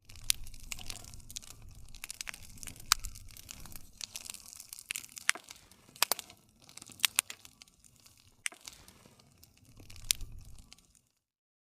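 Wood fire crackling, with frequent sharp pops and snaps over a low rumble of flames. It cuts off suddenly to silence near the end.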